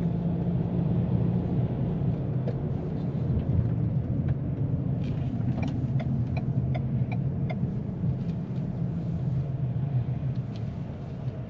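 Cabin noise of a 2022 Ford Maverick pickup cruising at highway speed: a steady low rumble of road and wind noise. About halfway through comes a short run of light, evenly spaced ticks.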